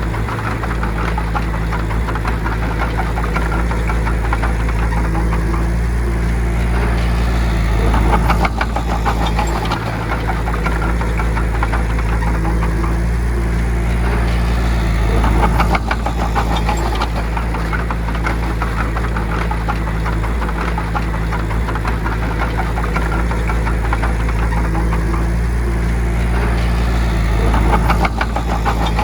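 Bulldozer's diesel engine running steadily under work, swelling a little three times (about 8, 15 and 28 seconds in) with a fast rattling clatter each time.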